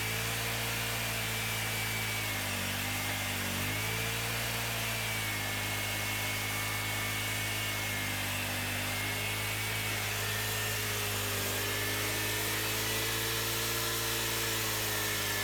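Small gasoline engine running steadily, its pitch sagging briefly a few times as if under a passing load.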